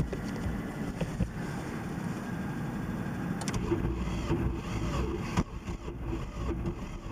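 A motor vehicle's engine sound, with a steady low hum setting in about halfway through.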